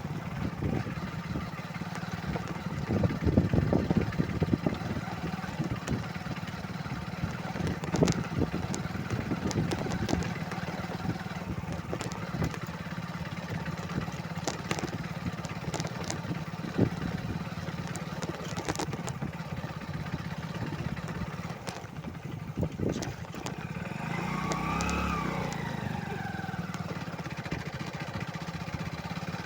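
Motorcycle engine running steadily, with scattered knocks and rattles. A short tone rises and falls about twenty-five seconds in.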